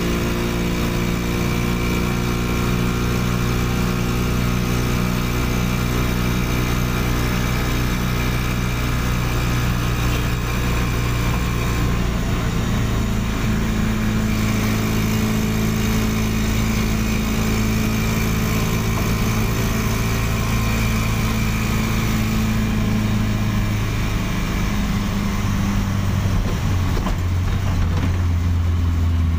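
Small car fitted with a motorcycle engine, running steadily; the engine note shifts in pitch a few times.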